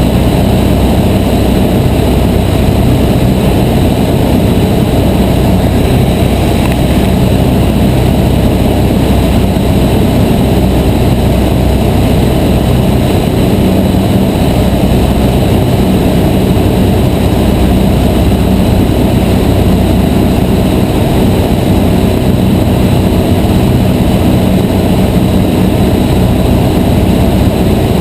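Cessna 152's four-cylinder Lycoming O-235 engine and propeller running steadily in flight, a loud constant drone with no change in power.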